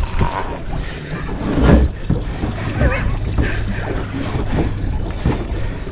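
Wind buffeting the microphone on a small boat at sea, a steady low rumble with a louder buffet a little under two seconds in.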